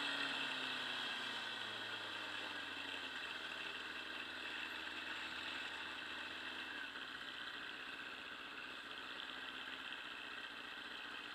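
Motorcycle engine slowing, its pitch falling over the first few seconds, then settling into a steady idle.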